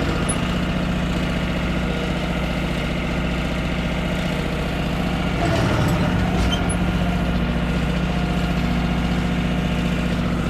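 Tractor's diesel engine idling steadily, with a brief louder change about halfway through.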